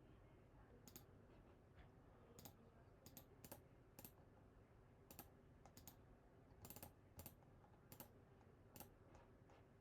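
Faint computer clicks from mouse and keyboard work, a dozen or so at irregular spacing, some in quick pairs, over a low steady room hum.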